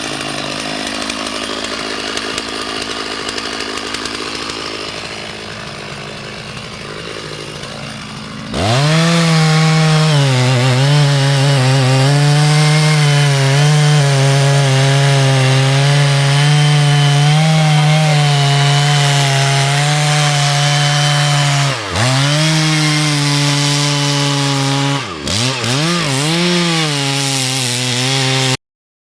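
Two-stroke chainsaw cutting timber. It runs quieter for the first third, then is opened to full throttle, and its pitch wavers as the chain loads in the wood. Near the end it drops briefly twice.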